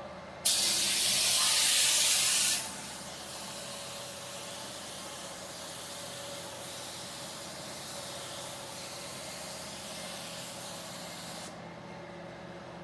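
Aerosol can of black primer spraying: a loud hiss for about two seconds, then a longer, softer spray that stops near the end.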